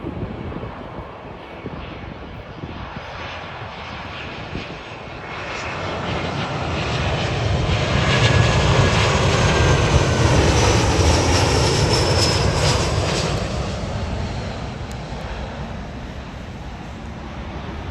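Jet airliner passing close by at Heathrow: its engines' rumble swells over several seconds, peaks with a faint falling whine, then fades away.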